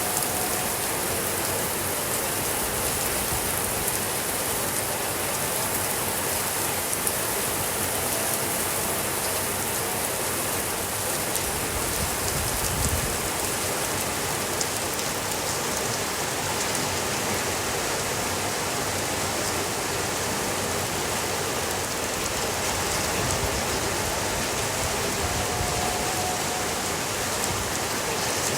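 Steady rainfall on a surface, an even hiss of rain with fine scattered drop ticks and no change in level.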